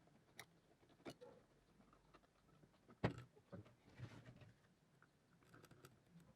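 Near silence with a few faint clicks and taps, the sharpest knock about three seconds in.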